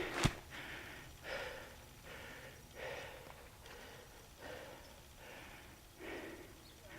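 A mountain biker breathing hard close to a helmet-mounted microphone, a breath roughly every second, with a sharp click just after the start.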